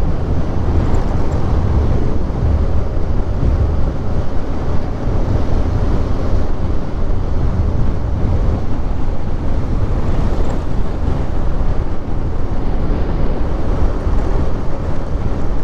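Steady wind noise on the microphone of a moving motorcycle, with the engine and road noise underneath.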